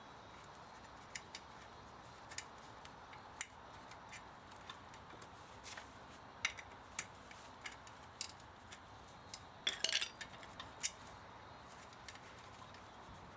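Light metallic clicks and clinks of tools and parts being handled while a spa motor is taken apart for scrap. The clicks come at irregular intervals, with a short rattle of quick clinks about ten seconds in.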